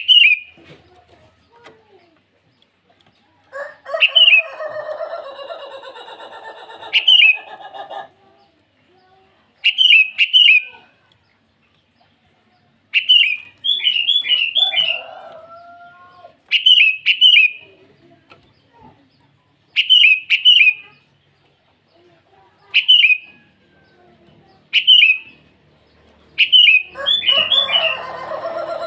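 Sooty-headed bulbul calling: short, bright phrases of two to four quick notes, repeated every two to three seconds. A longer, lower chattering passage comes twice, a few seconds in and near the end.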